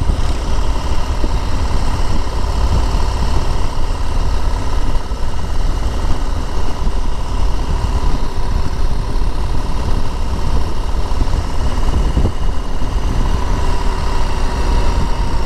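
Harley-Davidson Road Glide ST's Milwaukee-Eight 117 V-twin running steadily while the motorcycle cruises at road speed, mixed with a heavy low rumble of wind on the microphone.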